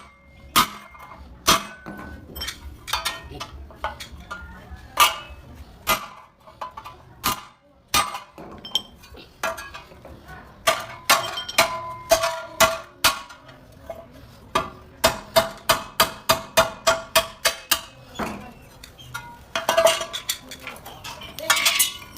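Hammer strikes on thin sheet metal, each a sharp ringing clang, coming singly at first and then in quick runs of about three blows a second around the middle and later part.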